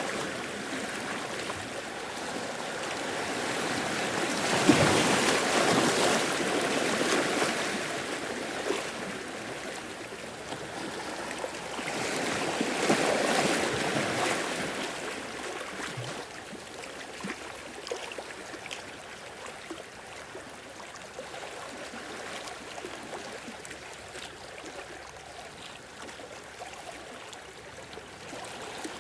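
Ocean waves washing against a rocky shore and into a cave. Two louder surges break about five and thirteen seconds in, with quieter washing and gurgling of water between them.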